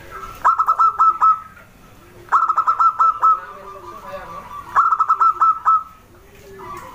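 Zebra dove (perkutut) singing: three bursts of quick, staccato cooing notes, each burst about a second long and coming every two to two and a half seconds.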